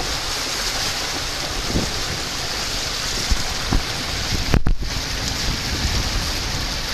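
Wind blowing across the microphone with a steady wash of water around a small sailboat; a heavier gust buffets the microphone a little past the middle.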